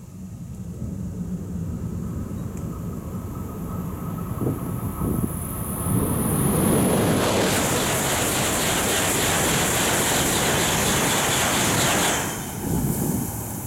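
Tohoku Shinkansen train approaching and passing at high speed. Its rush builds for several seconds, with a faint high whine falling in pitch, then holds loud and steady for about six seconds before cutting off abruptly as the last car goes by.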